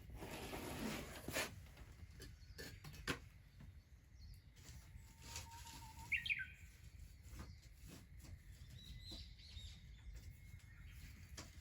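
Birds calling with a few short, sweeping chirps about halfway through and again near the end, over scattered sharp clicks and a steady low rumble.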